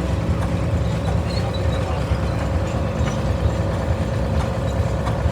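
Large engine running steadily, low and even.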